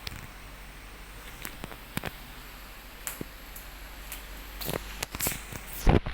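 Steady low hum of a Mistral ceiling fan running, with scattered sharp clicks and rustles that come thicker and louder over the last two seconds.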